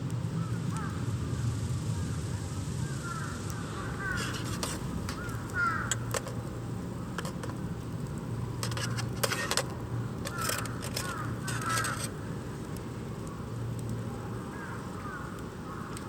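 Crows cawing in short series of harsh calls, three or four at a time, over a steady low background rumble.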